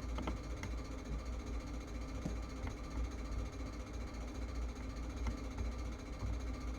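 A steady low electrical hum, with a few faint light clicks scattered through it.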